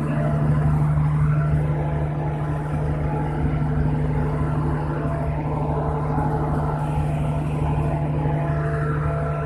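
Steady engine drone: a strong low hum with several steady higher tones above it, unchanging throughout.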